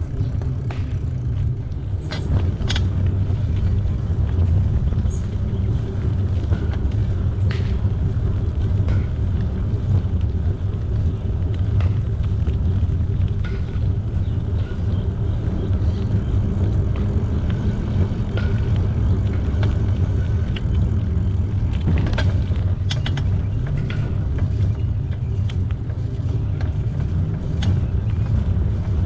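A bicycle riding along a trail: a steady low rumble, with scattered sharp clicks and rattles, a few bunched together about two seconds in and again about twenty-two seconds in.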